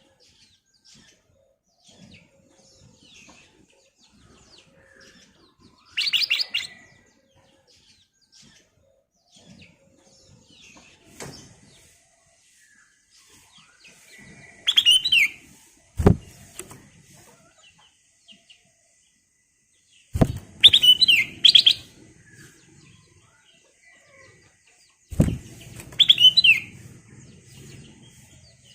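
Black-crested bulbul (kutilang emas) singing: short, bright, bubbling whistled phrases every few seconds, with quieter twitters between them. Three sharp knocks come around the middle and near the end, each just before a phrase.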